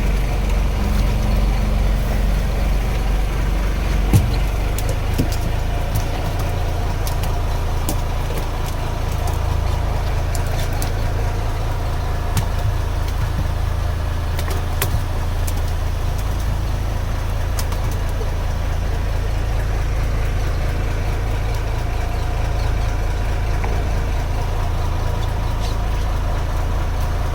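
Wooden fishing boat's engine running steadily at a low idle, with a few scattered clicks over it.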